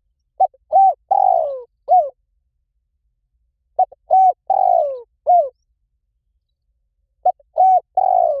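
Spotted dove cooing: its phrase of a short note, two hooked coos, a long falling coo and a last coo, repeated three times about every three and a half seconds.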